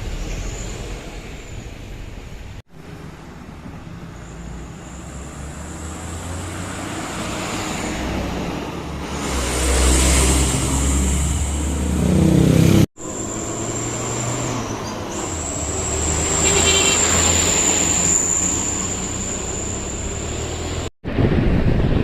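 Road traffic with heavy vehicles passing, the engine and tyre noise swelling and fading as each goes by, broken by abrupt cuts between clips.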